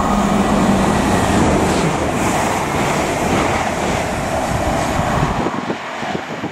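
TransPennine Express class 802 train passing close by the platform: a loud rush of wheels on rail and air, with a steady hum in the first couple of seconds. The deep rumble drops away suddenly near the end.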